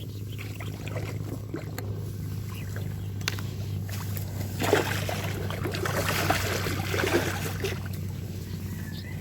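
Water splashing and churning for about three seconds, starting some four and a half seconds in, over a steady low hum.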